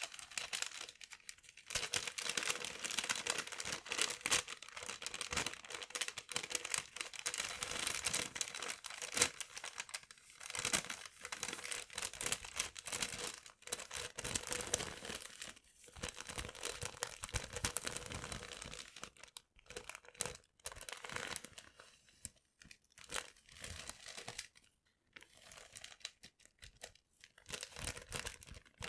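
Paper being crumpled and rustled close up, with dense crinkling. About two-thirds of the way through it breaks into separate handfuls with short pauses between them.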